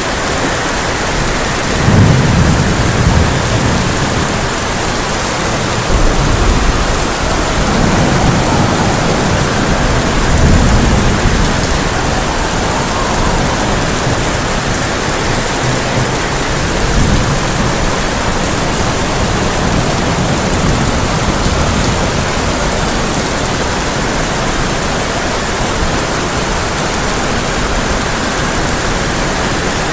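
Heavy rain falling steadily on a tin roof, with thunder rumbling low several times: a roll about two seconds in, a longer one from about six to twelve seconds, and fainter rumbles around seventeen to twenty-two seconds.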